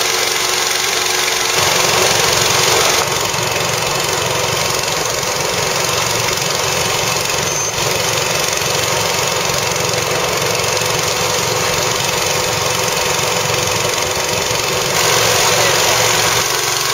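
A motor running steadily and loudly, with small shifts in level about 2 and 3 seconds in and again near the end.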